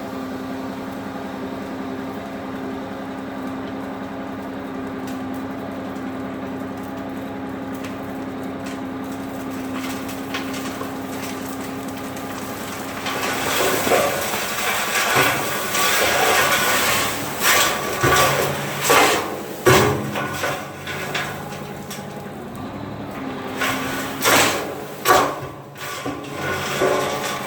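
An engine running steadily. About halfway through, irregular knocks and clanks join in, some of them loud.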